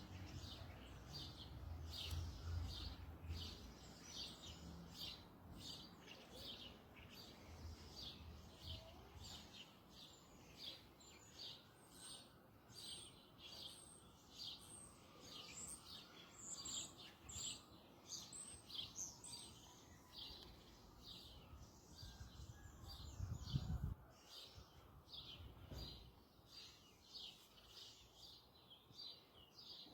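Faint, rapid high chirps of small birds repeating steadily, about two to three a second. There is a low rumble in the first few seconds and a brief low thud about three quarters of the way through.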